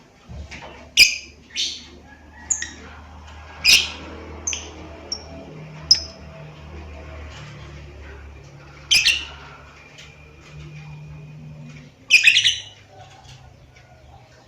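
Lovebird giving short, shrill chirps and squawks one after another at irregular intervals, with a rapid stuttering burst near the end, over a steady low hum.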